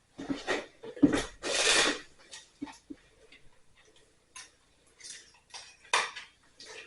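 Scattered metallic clicks and clinks of electrical hardware and hand tools being handled, with a short scraping rustle about a second and a half in.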